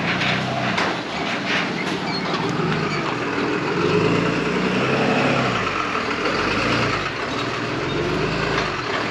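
A vehicle engine running, its pitch rising and falling several times as it is revved and eased off, with a few knocks and clanks in the first couple of seconds.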